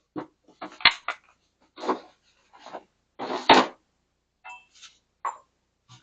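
Metal tools and sockets clinking and knocking as they are handled: a string of irregular sharp clicks and clunks with short gaps, the loudest a brief rattle about three and a half seconds in.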